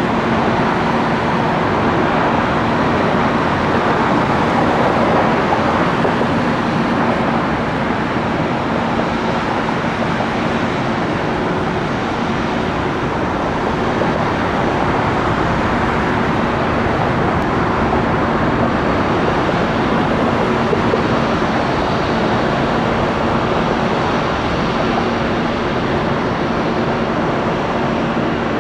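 Jet airliner engines running with a loud, steady noise and two steady low hums underneath, swelling slightly in the first few seconds.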